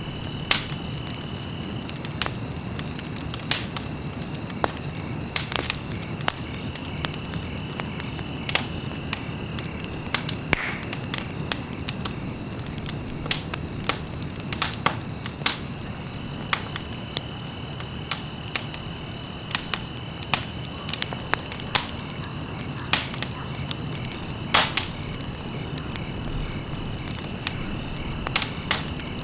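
Wood fire crackling: irregular sharp snaps and pops over a steady low rumble of burning logs. A faint steady high-pitched tone runs behind it.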